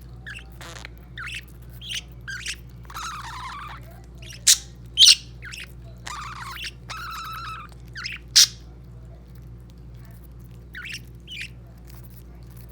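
Pet budgies chirping and chattering, short high calls and warbles scattered throughout, with three loud, sharp squawks about four and a half, five and eight and a half seconds in.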